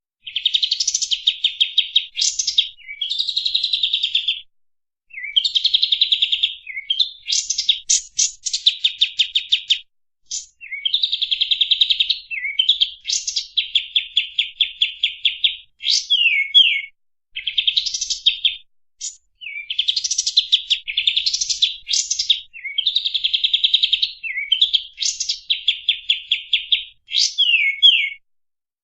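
Kapas tembak songbird singing one phrase after another with short pauses between them. Many phrases are fast, tightly packed trains of rapid-fire notes; others are shorter rising and falling whistles.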